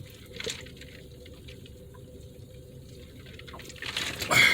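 Quiet, wet eating sounds of a person chewing a burger, with a few small clicks, a short burst about half a second in and a louder burst near the end.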